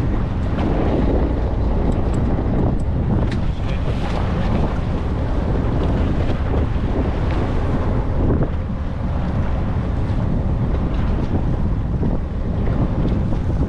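Steady wind noise on the microphone aboard a fishing boat at sea, over the rush of water and the boat's running noise.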